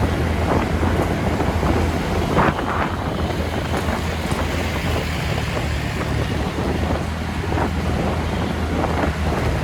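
Wind rushing over the microphone while riding a TVS Ntorq 125 scooter, with the single-cylinder engine running as a steady low drone underneath.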